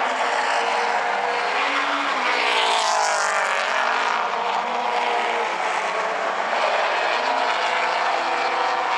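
Several late-model stock car V8 engines racing around the oval, their pitches overlapping and rising and falling as the cars pass through the corners and down the straights.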